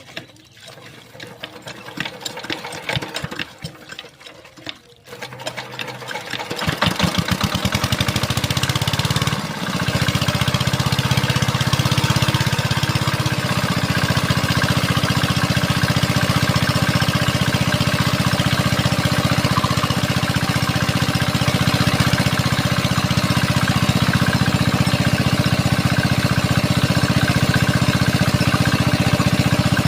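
Small diesel water-pump engine starting: irregular knocks for the first few seconds, then it catches about six seconds in, quickly picks up speed and runs steadily, with a brief dip in level a few seconds later.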